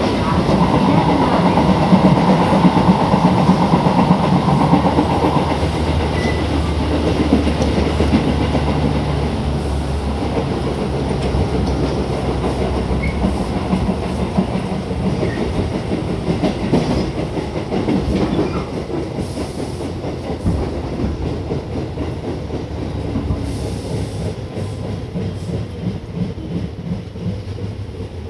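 Tobu 8000 series electric train heard from inside a motor car while running, with the clickety-clack of wheels over rail joints. A steady drone from the DC traction motors and gears fades out about five seconds in, and the running noise then slowly gets quieter.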